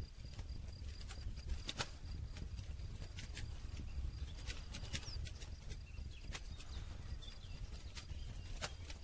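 Campfire crackling: irregular sharp pops and snaps, a few a second, over a low steady rumble.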